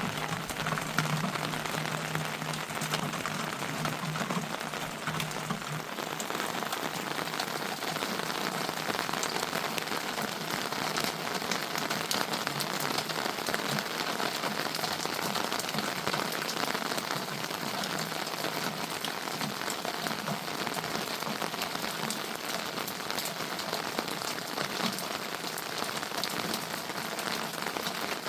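Heavy rain falling steadily, a dense hiss of many small drop impacts.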